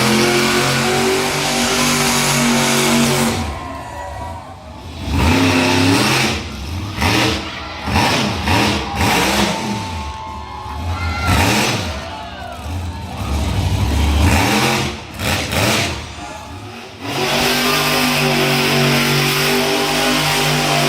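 Monster truck engines running and revving hard, the pitch climbing and falling, with several abrupt jumps in sound where clips are cut together.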